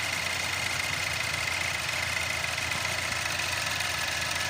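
Range Rover Evoque petrol engine idling steadily while running on an injector-cleaning apparatus that feeds cleaner into the fuel supply during injector cleaning. A steady high whine runs over the engine noise.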